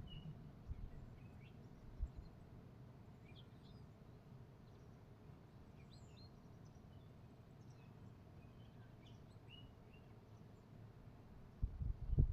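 Distant small birds giving short, high chirps, scattered and faint, over a steady low rumble, with a few low thumps near the start and again near the end.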